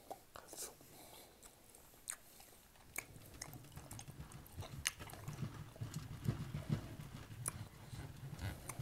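Close-miked chewing of a mouthful of T-bone steak and grilled onion: wet mouth clicks and smacks, becoming a steady, denser chewing rhythm from about three seconds in.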